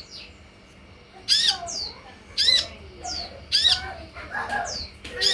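Sunbird calls: a series of sharp, high squawking notes about once a second, with shorter falling notes between them. The recording is meant to lure kept sunbirds into answering and singing.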